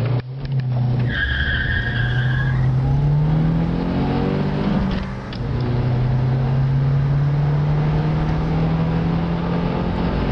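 Car engine under full-throttle acceleration, its pitch rising steadily, dropping once at a gear change about five seconds in, then climbing again. A high tyre squeal is heard for about a second and a half just after the launch.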